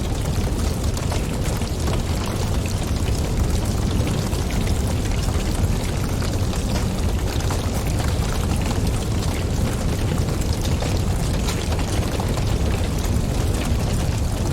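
Wood fire crackling in a fireplace: a steady low rumble of flames under a constant scatter of small sharp pops.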